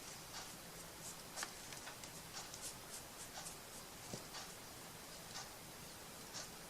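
Faint, irregular light scratches and small clicks of hands working on craft materials at a table.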